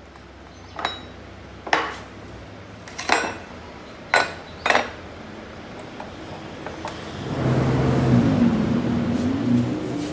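Metal parts knocking together five times, each a sharp ringing clink. About seven seconds in, a motor-driven shop tool starts running, a steady noise with a wavering low hum.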